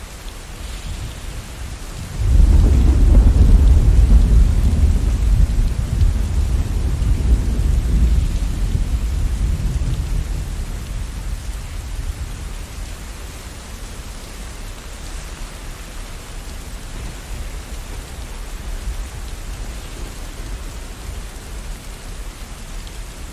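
Steady rain with a roll of thunder: a deep rumble breaks in suddenly about two seconds in and slowly fades away under the rain.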